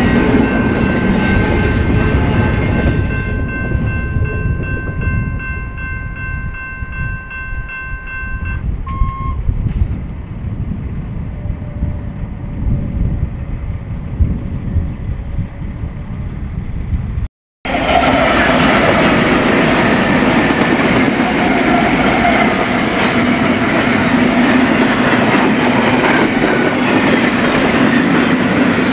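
Freight trains running by: first a passing train's rumble with a steady chord of high tones that stops about eight seconds in, then quieter running. After a brief break, a second freight train running by loudly with a dense rumble and wheel clatter.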